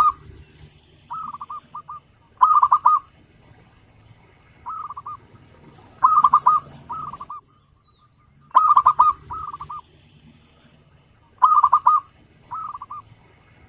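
Zebra dove (perkutut) cooing: loud phrases of several quick, rolling notes, repeated every two to three seconds.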